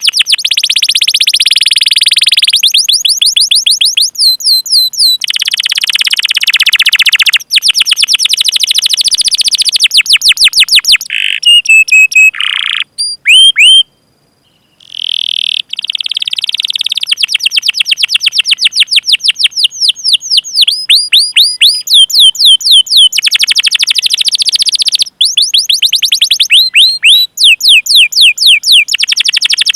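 Domestic canary singing loudly in long, fast trills of rapidly repeated chirps (rolls), broken by a few whistled notes that bend up and down. The song stops for about a second near the middle, then runs on in more rolls.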